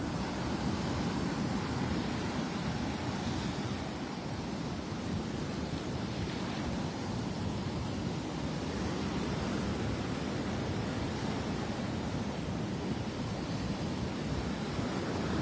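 Steady rush of rough surf breaking on the beach.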